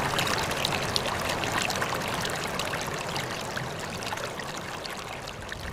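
Small forest stream flowing steadily over rocks, a continuous rush dotted with little splashes and trickles, slowly fading.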